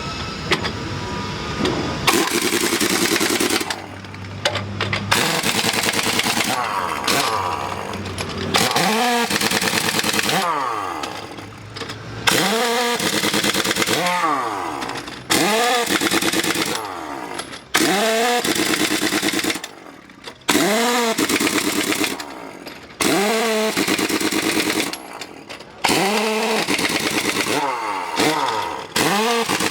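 Pneumatic impact wrench running the wheel nuts onto a truck hub in about a dozen bursts of a second or two, each winding up in pitch over a fast hammering rattle and falling away as it lets off.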